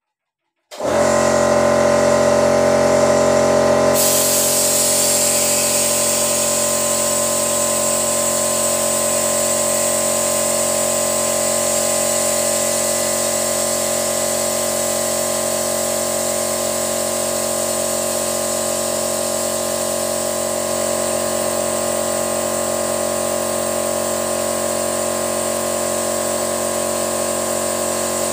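A motor starts abruptly about a second in and keeps running at a steady, unchanging speed, a loud hum with a hissing edge.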